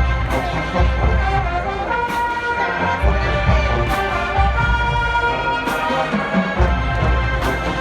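HBCU marching band brass section playing full and loud over heavy bass-drum hits, with sustained horn chords.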